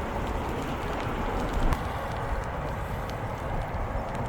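Rain falling on a tent shelter: a steady hiss with scattered small drop ticks over a low rumble.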